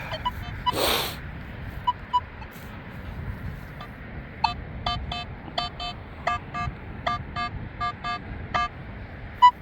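Metal detector beeping: a regular run of short electronic beeps, about three a second, starting about four and a half seconds in and stopping near the end, over a steady wind rush. A few single faint beeps and a brief gust come earlier.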